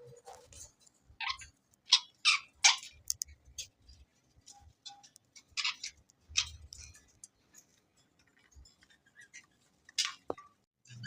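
Irregular light clicks and taps, a few close together and then pauses, from a budgie's beak and claws on its cage as it climbs.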